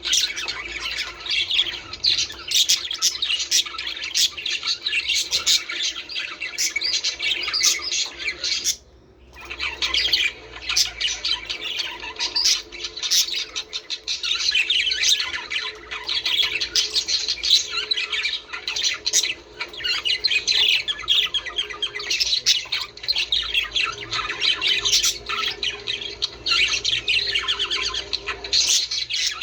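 Budgerigars chattering, with continuous overlapping chirps, warbles and squawks and a brief pause about nine seconds in. This is the chatter used to encourage budgies to breed.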